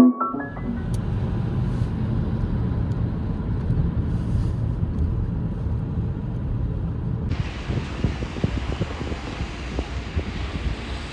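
Steady low rumble of rain ambience with faint scattered pattering; about seven seconds in, a brighter rain hiss comes in abruptly.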